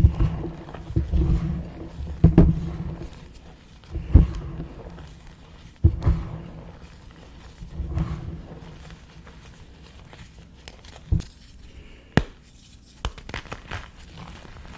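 Small pieces of gym chalk being crushed close to the microphone: a series of crunches with low thumps and crumbling after each, at first about every two seconds, then sparser, with a couple of sharp snaps near the end.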